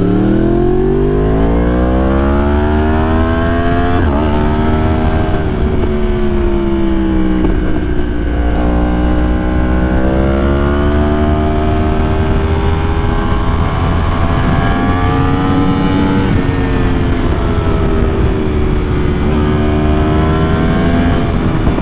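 Yamaha R1's inline-four engine pulling hard under acceleration, its note climbing and dropping back at upshifts about four and seven and a half seconds in. It then rises and falls with the throttle through the rest of the ride, over a steady low rumble of wind on the microphone.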